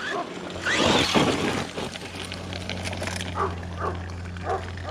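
An animal calling: one louder call about a second in, then four short, evenly spaced calls near the end, over a steady low hum.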